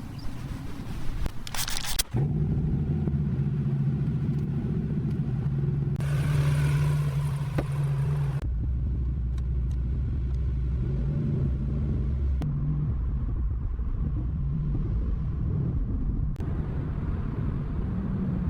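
Car engine running steadily with a low, even tone, coming in suddenly about two seconds in after a few seconds of clicking and scraping, and growing louder and rougher for about two seconds near the middle, as if revved or accelerating.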